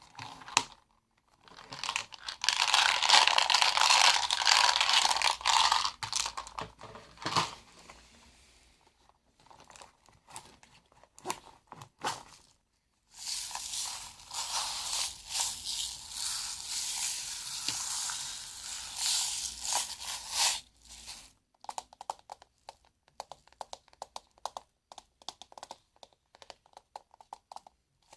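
Close-up handling of small objects: dense crinkling and rattling in two long stretches, then scattered small clicks near the end.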